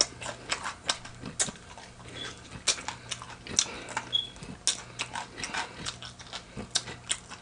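Close-up chewing of crispy fried chicken wings: irregular crunches and wet clicks of breading and skin breaking between the teeth. A faint steady low hum sits underneath.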